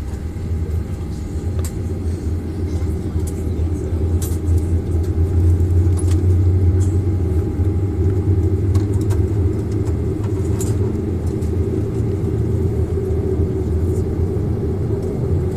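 Boeing 737-800's CFM56 jet engine starting up, heard inside the passenger cabin as a deep, steady rumble that grows louder about five seconds in. A few faint clicks sound over it.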